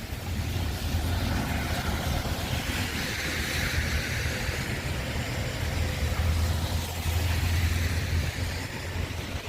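A car passing on a wet road: its tyre hiss swells over the first few seconds and fades away, over a steady low rumble.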